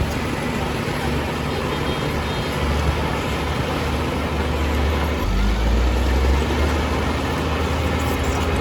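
Heavy diesel engine of earthmoving machinery running steadily under load. The low rumble grows heavier about five seconds in.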